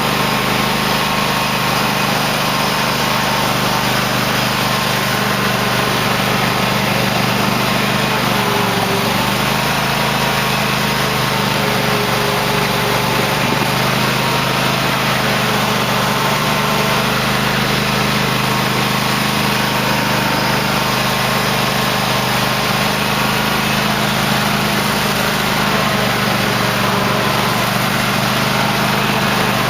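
Cub Cadet LT1050 lawn tractor engine running steadily while the tractor plows snow, its pitch wavering slightly now and then.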